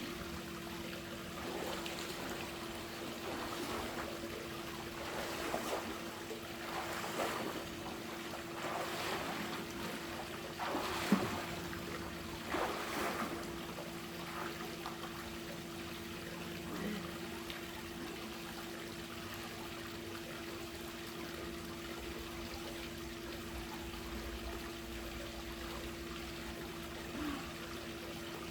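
Swimming-pool water splashing as a swimmer strokes through it, in irregular splashes over the first half, the sharpest about eleven seconds in, then settling to a steady trickle and lapping. A constant low hum runs underneath.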